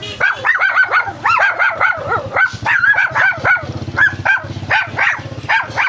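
A dog yelping in a rapid string of short, high-pitched yips, several a second with brief gaps, over a faint low steady hum.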